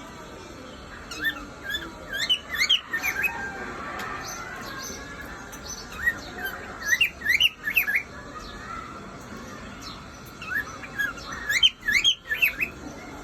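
Male cockatiel whistling: three bursts of quick, rising whistle notes a few seconds apart.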